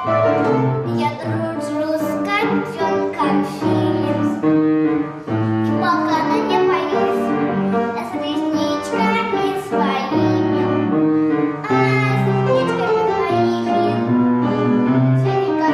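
A children's song: young voices singing over instrumental backing music.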